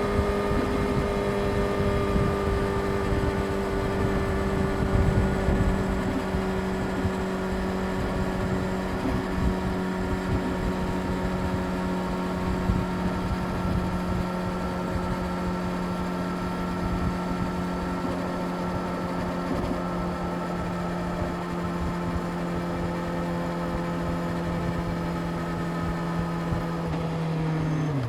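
Yamaha YZF-R6 inline-four engine cruising at steady revs, a constant engine note that sags slightly in pitch, with wind rumble underneath. Near the end the note dips briefly.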